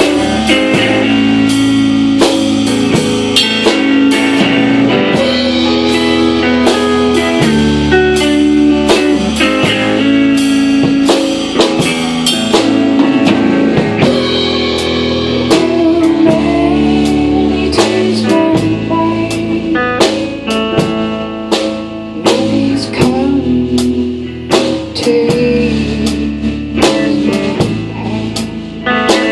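Live band music: a guitar-led trio with a drum kit playing an instrumental passage with a steady beat.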